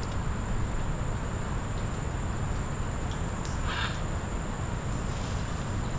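Outdoor tropical ambience: a steady high insect drone over a low rumble, with one brief call about three and a half seconds in.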